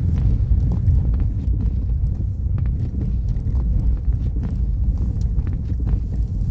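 Car driving on a snow-covered road: a steady low rumble of tyres and engine, with scattered irregular ticks and clicks.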